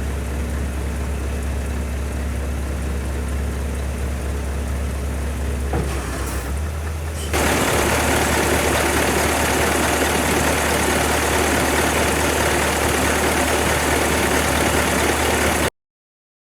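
Scania 143H 470 truck's 14-litre V8 diesel idling steadily with a deep hum. About seven seconds in, the sound steps up to a louder, rougher, broader noise. It cuts off suddenly shortly before the end.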